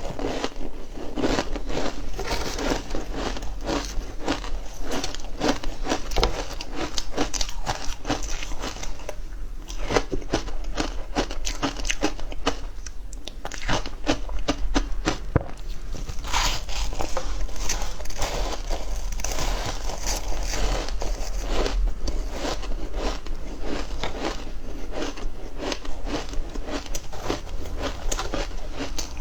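A person biting and chewing frozen matcha ice, a continuous run of close crackling crunches with short lulls about ten and thirteen seconds in.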